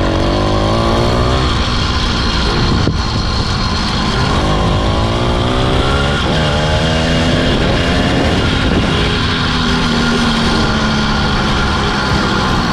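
Chinese 80cc two-stroke motorized-bicycle engine running under way. Its pitch climbs with throttle and drops back twice in the first half, then holds fairly steady.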